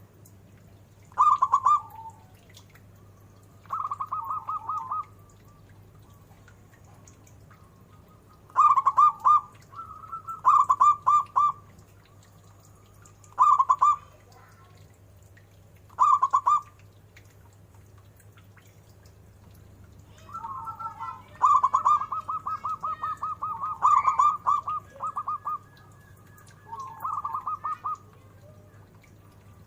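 Zebra dove (perkutut) cooing: about nine short phrases of quick, staccato pulsed coos with pauses between them, and a longer run of rapid notes a little past two-thirds of the way through.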